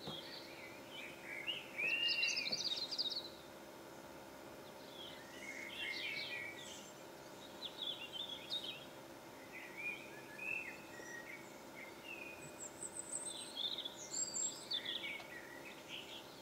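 Small birds chirping and warbling in short, scattered phrases, over a faint steady hum.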